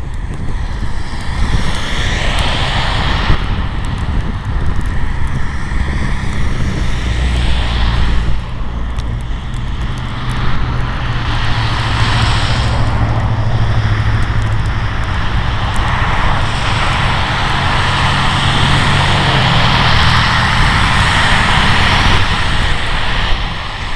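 Snowstorm wind rushing in gusts, swelling and easing every few seconds, over a steady low rumble.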